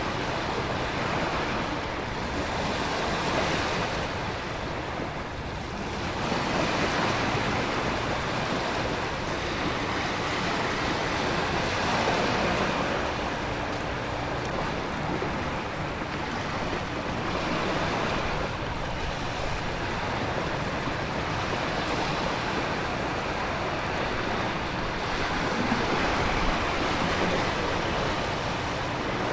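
Storm ambience of heavy ocean surf and wind with rain: a dense, steady rush that swells and eases every few seconds.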